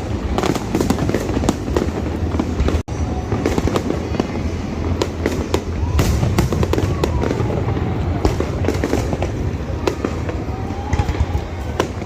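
Fireworks display going off in a dense, continuous crackle of bursts and pops, with faint rising and falling whistles; the sound cuts out for an instant about three seconds in.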